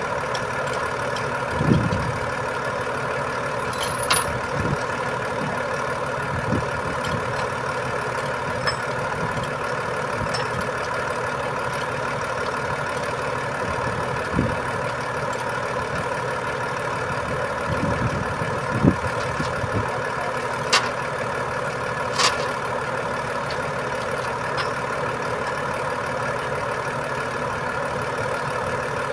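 Heavy truck engine running steadily, with a few short knocks and metallic clicks over it.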